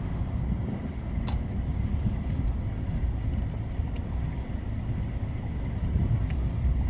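Low, steady street rumble of road traffic mixed with wind buffeting the microphone, with a faint tick about a second in.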